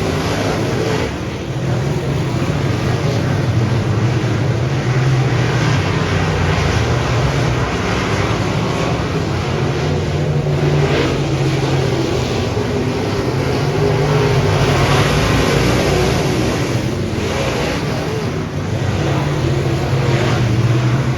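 Dirt modified race car engine running hard at racing speed, its level rising and falling, with short dips about a second in and again near the end.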